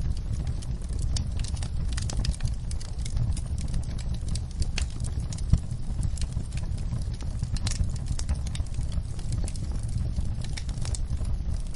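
Wood fire in a fireplace crackling, with irregular sharp pops and snaps over a steady low rumble of the flames; one louder pop about five and a half seconds in.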